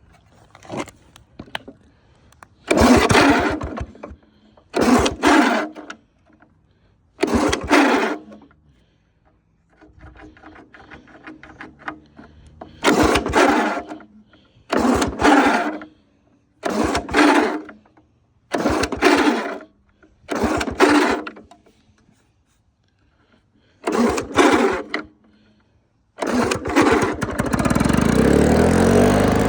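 Lawn-Boy 5024 'brick top' mower's two-stroke engine being pull-started from cold after a year unused: about nine tugs on the recoil starter cord, each a short burst of cranking, before the engine catches about 26 seconds in and keeps running.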